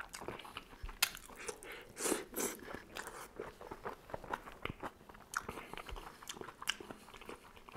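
Close-miked eating of squid tagine: biting and chewing with wet mouth smacks and small crunches, the loudest bites about a second in and again around two seconds in.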